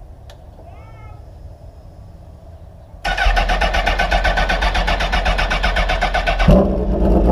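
Honda CBR1000RR being started: the starter cranks the inline-four with a fast, even chatter for about three and a half seconds, then the engine catches and keeps running. This is the first start after a blown main fuse was replaced and the new battery fitted.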